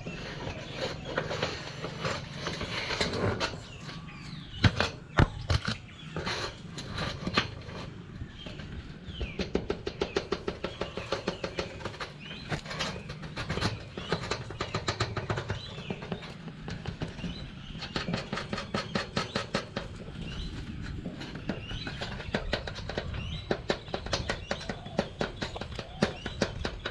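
A bird pecking and biting at a camera: many sharp taps and clicks close to the microphone, a few louder knocks about five seconds in, then long runs of quick taps at several a second.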